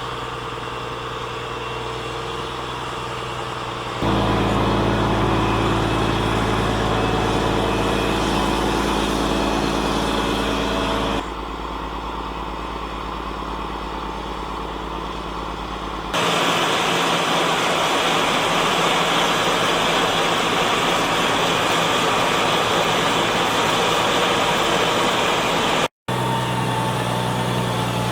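Claas Xerion 3300 tractor's diesel engine running steadily while working a silage heap. The engine sound changes abruptly in loudness and tone several times, with a brief dropout near the end. It is loudest and noisiest for a stretch in the second half.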